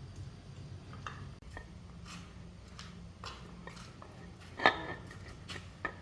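Small metal parts and hand tools clinking and tapping as they are handled, with one sharper, louder clank a little over halfway through, over a steady low hum.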